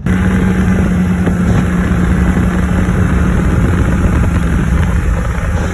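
Polaris XC 600 snowmobile's two-stroke engine running at speed, a loud steady drone that comes in abruptly.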